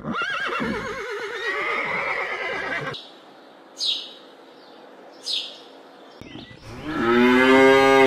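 A horse whinnies with a wavering, trembling pitch for about three seconds. Then a small bird chirps twice, and near the end a cow moos loudly.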